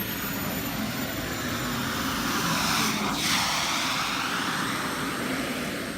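RC model jet's gas turbine running with a steady roar and a thin high whine, the sound sweeping as the aircraft passes about halfway through. It cuts off suddenly at the end.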